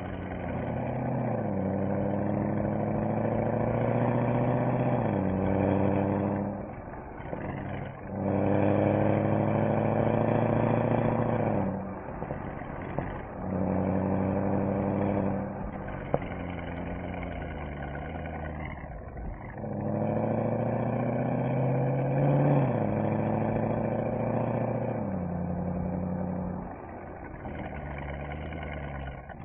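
Mercedes-AMG SL63's V8 exhaust on the move, pulling hard in swells of a few seconds and easing off between them as the car accelerates and lifts. One sharp crack comes about sixteen seconds in.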